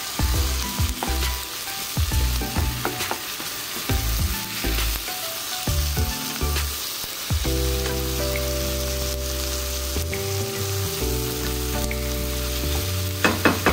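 Sliced onions, garlic and tomato sizzling in oil in a nonstick pan while a spatula stirs and scrapes them, with sharp scraping strokes through the first half. From about halfway, steady low tones that shift in pitch every second or two join in, and a couple of sharp knocks come near the end.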